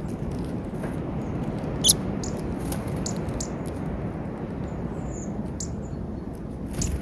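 Birds pecking and tapping at peanuts in a feeder: many small, sharp, irregular clicks, one louder knock about two seconds in, over a steady low background rumble.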